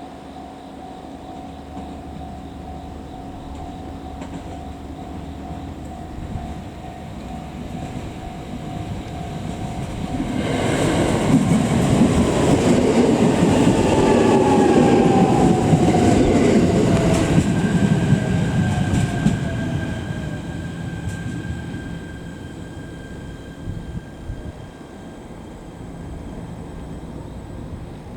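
Shinano Railway local train running along the platform, swelling to a loud rumble of wheels on rail with a whine that falls in pitch, then fading away.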